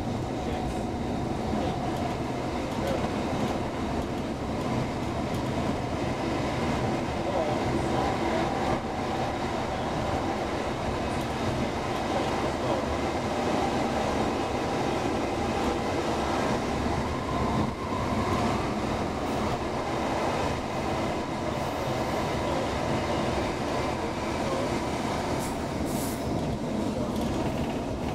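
Steady rumble of an X10p electric commuter train running at speed, heard from inside the passenger car.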